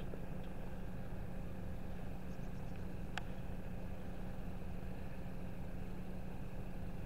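Steady low hum of an idling engine, with a single sharp click about three seconds in.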